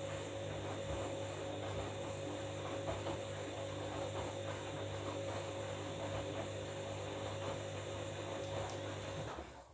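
Washing machine running mid-wash: a steady motor hum under uneven water sloshing, cutting off abruptly near the end.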